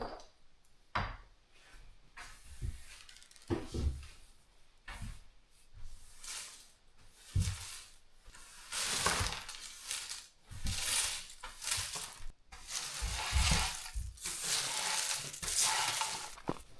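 Kitchenware being handled: scattered clinks and knocks of dishes and glass, then longer stretches of hissing, rustling noise in the second half.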